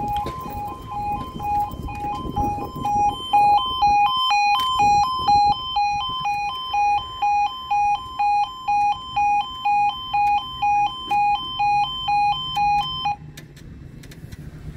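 Level crossing alarm sounding: a two-tone warble alternating about twice a second, which cuts off suddenly near the end. A low rumble runs under it for the first few seconds.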